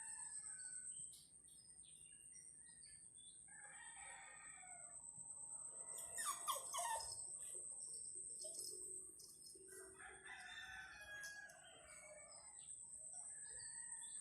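Rooster crowing several times, faint, over a steady high-pitched whine.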